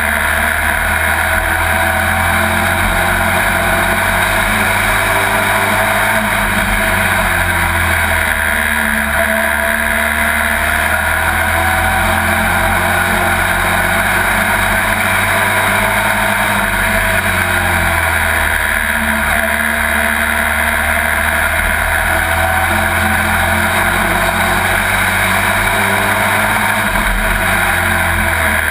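Pro Truck race truck's engine heard from inside the cab, running hard at racing speed, loud and steady, its pitch rising and falling gently every few seconds as it comes off and back on the throttle.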